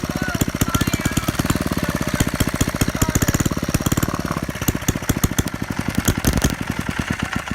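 Old Reo engine running at a rapid, even firing beat, cutting out right at the end.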